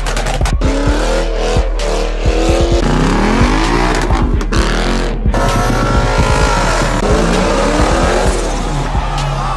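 Car engines revving, pitch climbing and falling several times, with a little tyre squeal over a steady low bass.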